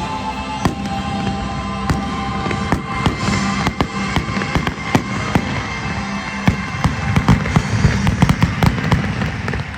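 Fireworks going off in a rapid run of bangs and crackles that come thicker and faster in the second half, then stop near the end. Music plays underneath.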